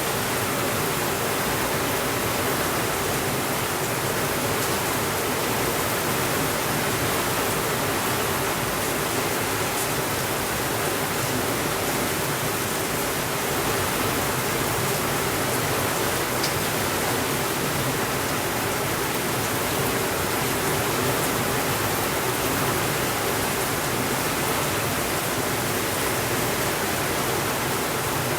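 Steady rainfall, an even unbroken hiss, with a few faint ticks now and then.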